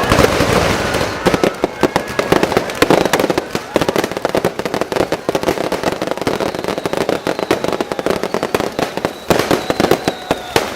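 Set-piece firework burning after ignition: dense, continuous crackling made of many small sharp pops, with a thin whistle near the end.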